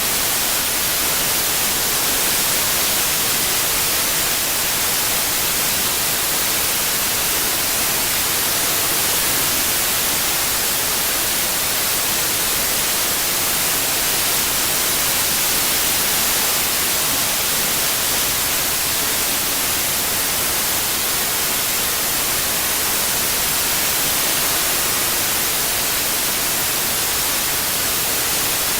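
Steady synthetic white noise, an even hiss with the most energy in the treble, played as a tinnitus-masking sound.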